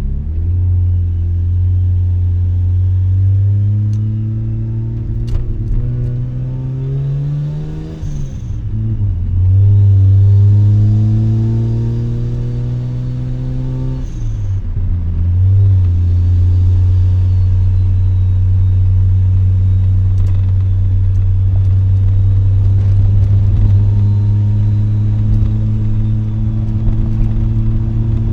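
Mazda RX-7's two-rotor rotary engine through an RE Amemiya Dolphin Tail 90 curl exhaust, heard from inside the cabin with the windows down. It pulls up through a gear, drops in pitch on an upshift about eight seconds in, pulls up again to a second shift about halfway, then cruises at a steady pitch.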